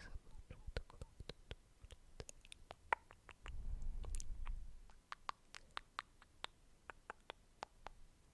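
Close-miked ASMR mouth sounds: soft wet clicks and smacks of lips and tongue, irregular, several a second. A low muffled rumble swells for about a second and a half near the middle.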